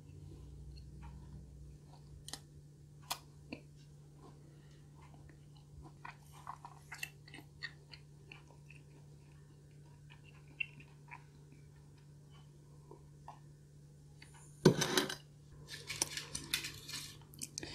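Close-miked chewing of a soft chocolate chip cookie: soft, wet mouth clicks over a faint steady low hum. About fifteen seconds in comes a single sharp knock, the loudest sound, followed by a couple of seconds of crinkling from the aluminium foil pan as the cookie is picked up and broken.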